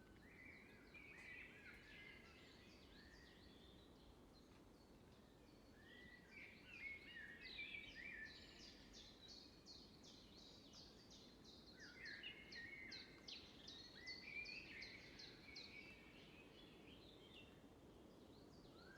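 Faint birdsong: scattered chirping calls, with quick runs of repeated short notes in the middle.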